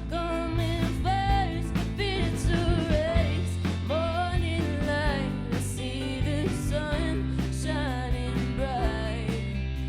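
Rock band playing a song: drums, bass, electric guitar and keys in a full mix, with a sliding, bending melodic lead line on top.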